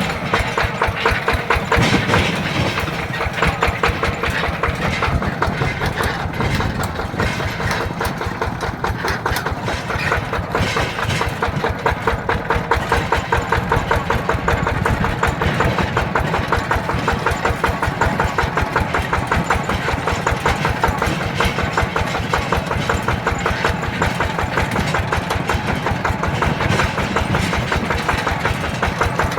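Yanmar TF120 DI single-cylinder diesel engine of a mini tractor running steadily, its firing pulses coming in a quick, even beat.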